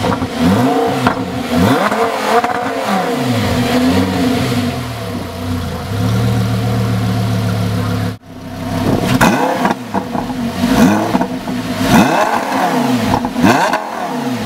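Audi R8 V10 Spyder with an Akrapovič exhaust being revved from idle in a series of throttle blips. The exhaust note sweeps up and drops back several times, with a short stretch of steady idle in between.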